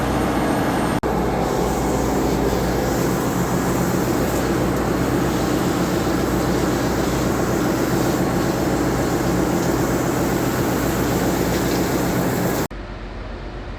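Loud, steady machinery noise of a ship's engine room. Near the end it gives way suddenly to a quieter steady hum.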